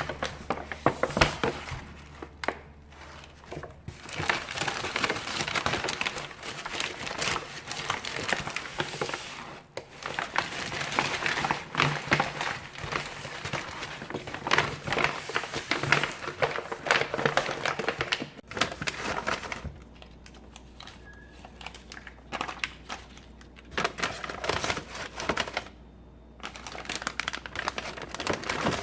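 Plastic bags and food packaging crinkling and rustling as they are handled, in long busy stretches broken by a few short quiet pauses.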